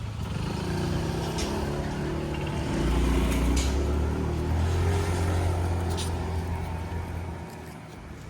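A motor vehicle passing close by: its engine hum swells a few seconds in, holds, then fades away near the end.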